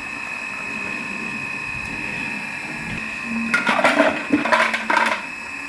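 A small electric motor running steadily with a high whine, with a burst of clattering strokes near the end.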